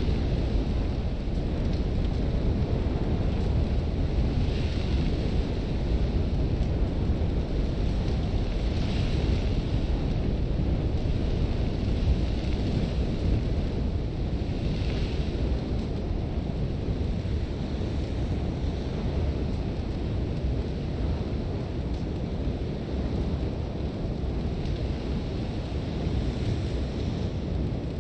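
Sandstorm wind blowing steadily with a deep, rumbling low end, with several brief swells of higher hiss from blowing sand.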